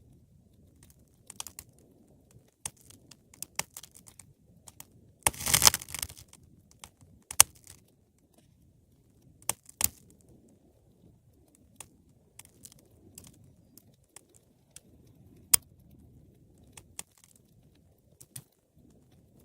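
Wood fire crackling, with a dense burst of crackles about five seconds in and single sharp pops scattered through, over a faint low rumble of the flames.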